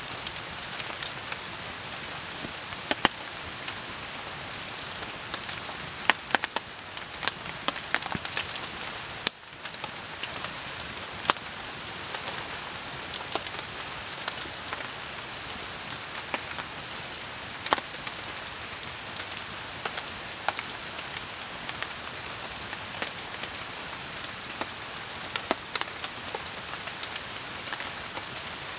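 Steady rain hissing down, with the Hoh River running beneath it, while a campfire crackles with sharp pops scattered irregularly throughout.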